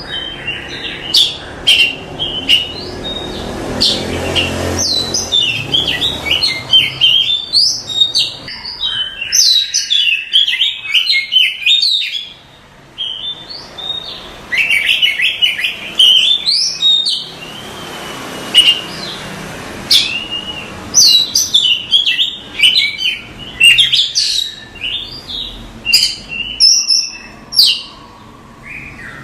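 Oriental magpie-robin singing a long, varied song of rapid high chirps, trills and whistled phrases, broken by a few short pauses.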